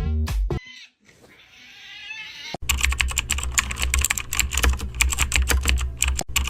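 Rapid typing on a computer keyboard, dense fast clicking over a steady low hum, beginning about two and a half seconds in. Before it, electronic music cuts off just after the start and a faint sound swells up.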